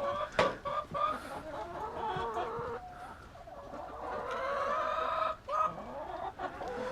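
Domestic hens clucking and giving drawn-out calls, with a single knock about half a second in.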